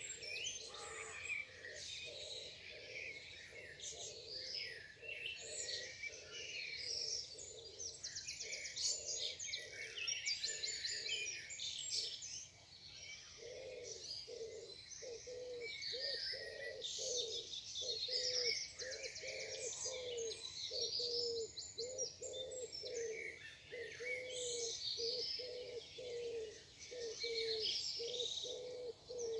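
Morning chorus of many songbirds singing and trilling at once. From about halfway through, a low cooing call repeats about twice a second beneath them.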